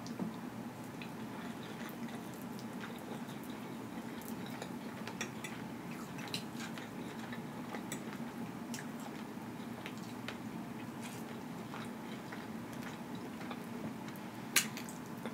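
Close-miked chewing and mouth sounds of a person eating rice with a fork, with scattered small clicks and one sharper click near the end, over a faint steady low hum.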